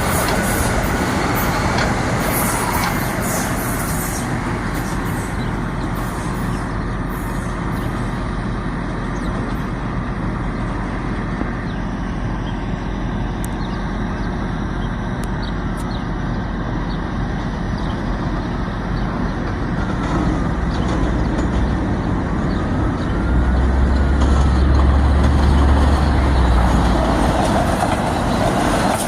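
Metro-North train running by with a steady rumble, swelling into a deep, louder rumble about 23 seconds in and easing near the end.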